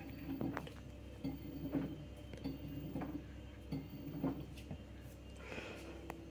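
LG F2T9GW9P front-loading washing machine on its spin-only cycle: the drum turns over a low steady motor hum, with irregular light clinks and knocks from the load inside.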